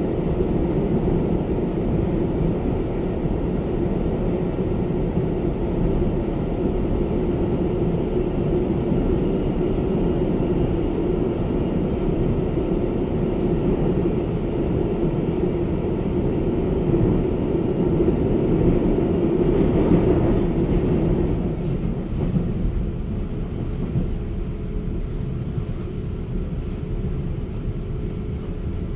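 Taiwan Railway EMU900 electric multiple unit running along the line, a steady rumble with a held hum. It grows slightly louder, then eases off and quietens about three-quarters of the way through.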